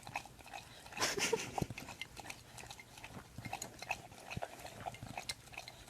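Quiet animal sounds: scattered small clicks and a few brief, faint squeaks.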